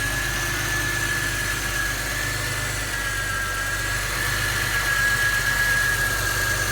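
1988 Chevrolet Beretta GT's 2.8-liter V6 idling steadily, with a constant high-pitched whine over the engine note.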